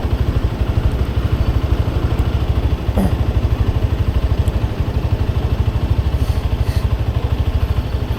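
Motorcycle engine running steadily with an even low throb.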